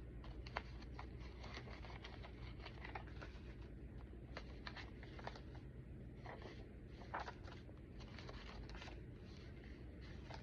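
Paper pages of a thick handmade junk journal being handled and turned, with soft rustles and light clicks, over a low steady hum.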